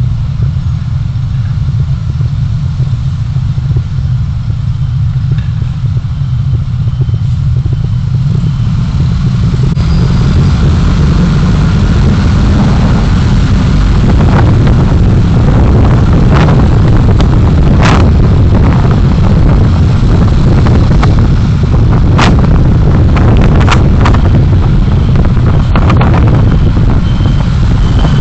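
Road and engine noise of a vehicle on the move, picked up by a dashcam: a heavy low rumble that grows louder about ten seconds in, with scattered sharp knocks and clicks in the second half.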